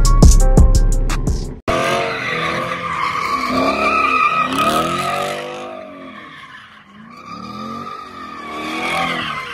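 Background music with a heavy drum beat cuts off abruptly about a second and a half in. Then a car engine revs up and down over and over while its tyres squeal, as in a burnout or donuts.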